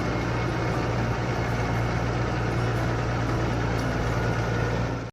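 Steady low mechanical hum and rumble, like a running motor, unchanging until it cuts off suddenly near the end.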